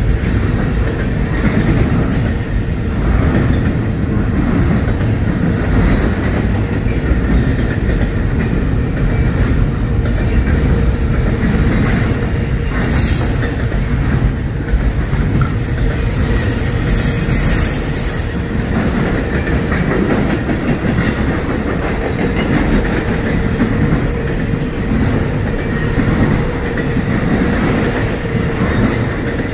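Freight train cars rolling past, a steady loud rumble and clatter of wheels on the rails with scattered clicks. A brief high wheel squeal comes about halfway through.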